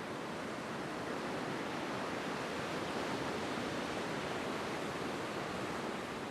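Heavy storm surf: a steady, even wash of breaking waves, cutting off suddenly at the end.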